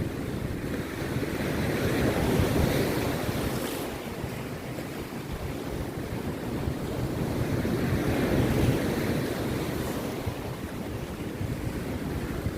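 Rough surf on a beach, breaking and washing in two slow swells, with wind buffeting the microphone in a low rumble.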